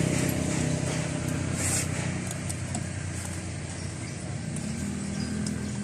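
A motor vehicle engine running, loud at first and fading over the first couple of seconds into a steady low drone, with a few faint light clicks.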